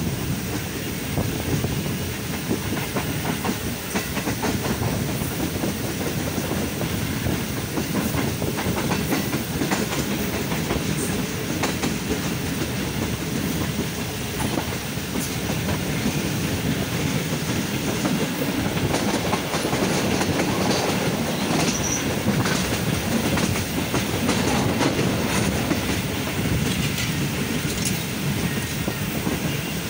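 Passenger train coach running along the track, heard from an open coach window: a steady rumble of wheels on rails with scattered clicks.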